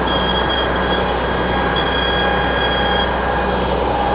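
Truck engine idling steadily, a low even hum under a constant noise, with no revving.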